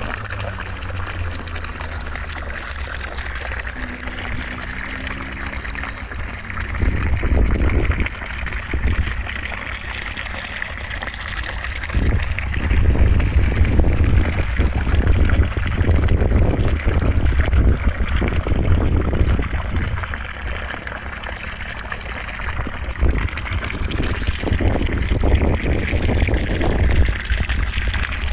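Continuous white-noise hiss with a rushing, water-like quality, plus an uneven low rumble that swells about seven seconds in and again from about twelve seconds.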